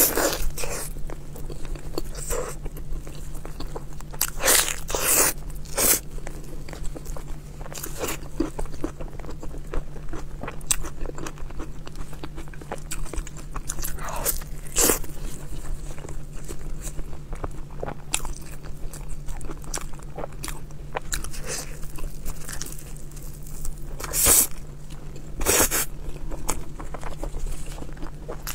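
Close-up eating sounds: a person biting into and chewing mouthfuls of a sauce-glazed food, with irregular wet mouth smacks. The loudest come about four to six seconds in and again near the end, over a faint steady low hum.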